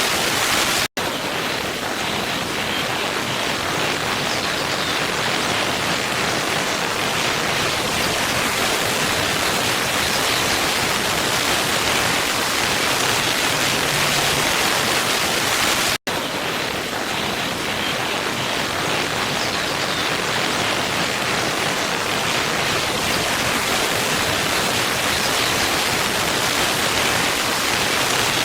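Waterfall rushing in a steady, dense roar of falling water that cuts out for an instant twice, about a second in and again about halfway through, at the seams where the looped recording is joined.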